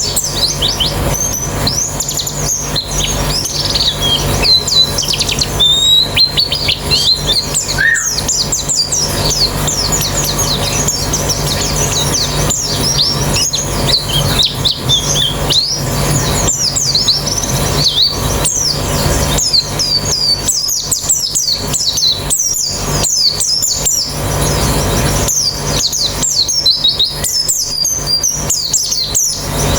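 A colony of white-eyes (pleci) singing together, a dense unbroken stream of quick high-pitched chirps and trills from many birds at once. A steady low hum runs underneath.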